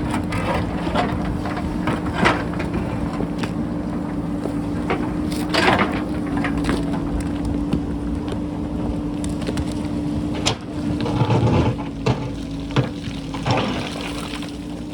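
JCB backhoe loader's diesel engine running steadily under load, with scattered sharp cracks and knocks of the bucket digging into rock and stones breaking loose; a heavier rumble of rock being dragged and falling comes about two-thirds of the way through.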